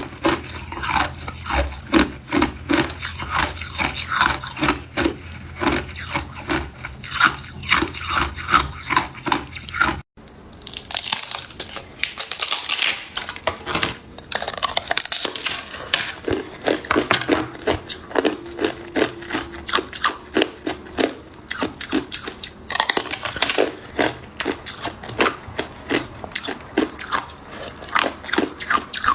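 Hard ice cubes being bitten and chewed close to the microphone: rapid, continuous crunching and cracking. A brief break about ten seconds in.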